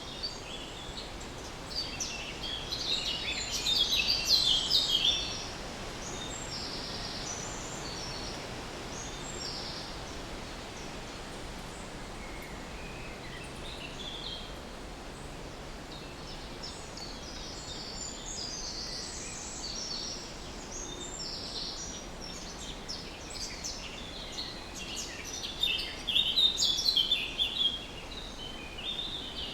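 Songbirds chirping and singing over a steady outdoor background hiss, with two louder flurries of rapid chirps, one about two to five seconds in and another near the end, and scattered calls in between.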